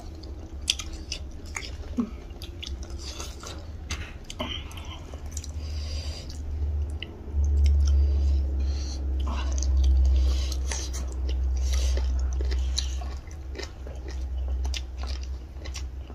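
Close-miked chewing of food eaten by hand, with many small wet clicks and bites from two people eating. A low rumble swells underneath for several seconds in the middle.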